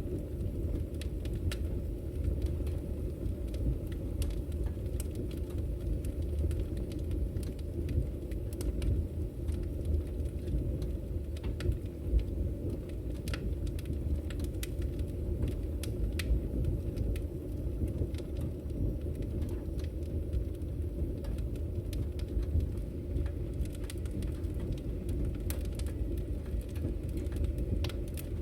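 Firewood burning in a fireplace, crackling with many irregular sharp pops and snaps over a steady low rumble.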